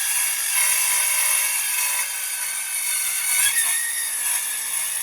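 A saw blade cutting through stock with a steady, high rasping sound, the saw blade the user says keeps binding but has lost no teeth.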